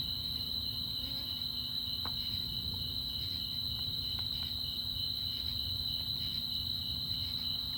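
A steady chorus of insects, a continuous high-pitched trill that does not break or change, over a low background rumble.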